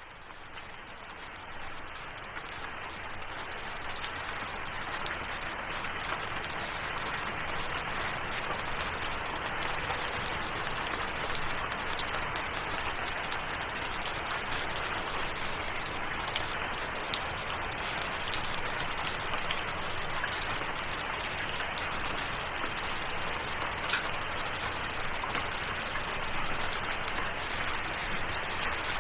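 Steady rain falling, with scattered individual drops heard as small clicks; it fades in from silence over the first few seconds.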